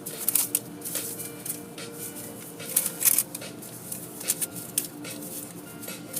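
Car wash running: irregular spatters and slaps of water or brushes against the car over a steady machine hum.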